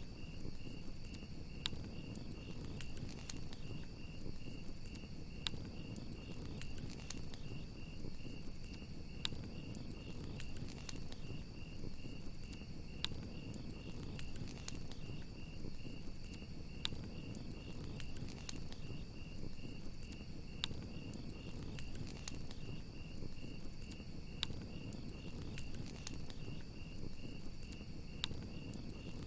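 Crickets chirping in a steady, rapid, even pulse over a crackling wood fire. Sharp pops of the burning wood come at irregular moments, over a low steady rumble of the flames.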